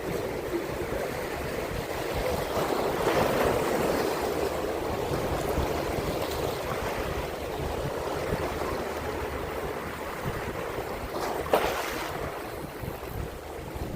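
Seawater washing and lapping in a steady wash of noise, with a single sharp click or knock near the end.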